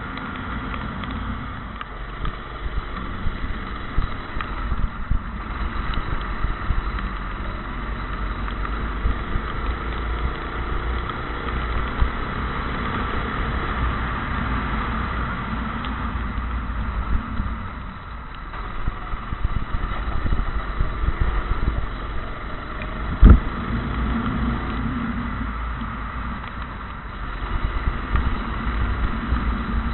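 Go-kart engine running, its pitch rising and falling with the throttle, over a heavy rumble of wind and track noise. A single sharp knock comes about 23 seconds in.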